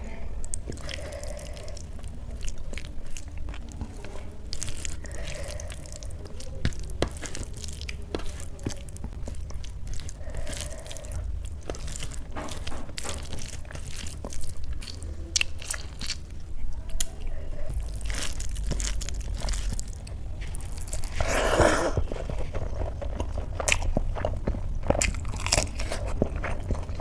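Close-miked eating: steady chewing and biting of food, with many small crunches and mouth clicks. A brief voice-like sound, such as an "mm", comes about four-fifths of the way through.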